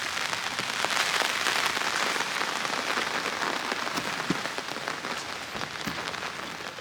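Spring rain falling steadily, a dense hiss with individual drops ticking on nearby surfaces.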